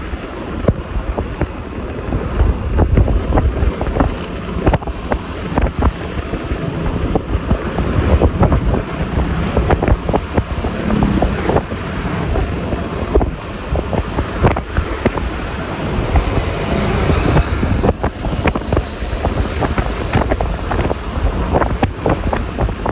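Wind buffeting the microphone while riding a Yamaha Lexi LX 155 scooter, over the scooter's engine and tyre and road noise; the rumble is heavy and uneven. A brief higher hiss comes through about three-quarters of the way in.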